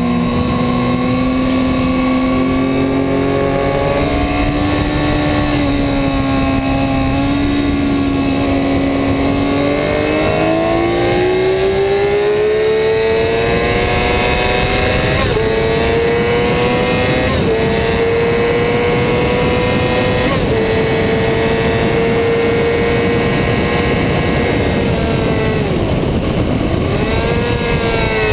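A 2008 Yamaha R6's inline-four engine at full track pace, over heavy wind rush. The engine note climbs steadily, drops back briefly with three quick upshifts in the middle, then falls sharply near the end as the rider downshifts, and picks up again.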